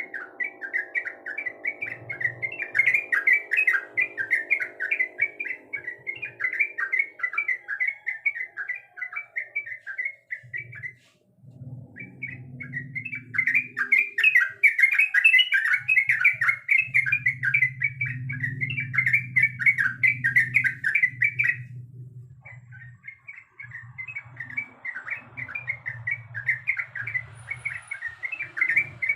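A trucuk bulbul singing a fast, continuous chattering song, broken by two brief pauses, about eleven and twenty-two seconds in.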